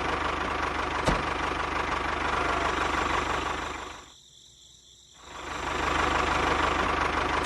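A mini tractor's motor running steadily with a fast low pulse and a single click about a second in. The sound fades away to near silence about four seconds in and comes back about a second later.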